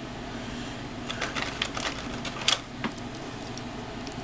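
Small plastic clicks and taps from an action figure and its clear plastic gun-effect parts being handled and fitted, a cluster of them from about a second in with the loudest near the middle, over a steady low room hum.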